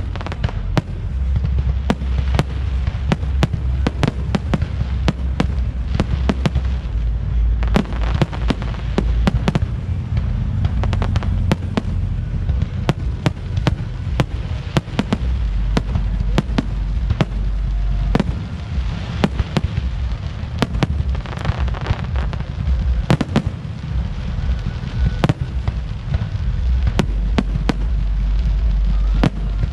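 Fireworks display: many sharp bangs and crackles in quick succession, with deep booms forming a continuous low rumble.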